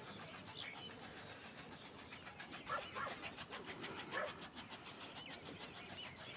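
Birds chirping faintly, a few short scattered calls over a low steady hiss.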